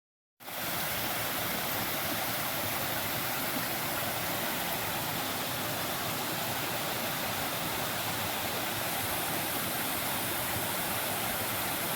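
Rushing water of a stream swollen by rain, a steady even roar that starts abruptly about half a second in.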